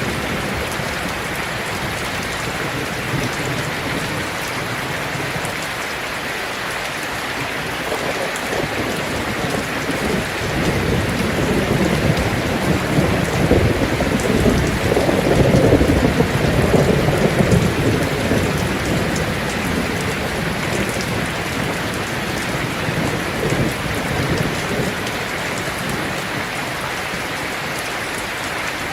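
Rain falling on a tin roof, a steady even patter, with a rumble of thunder that swells about a third of the way in, is loudest around the middle and fades away.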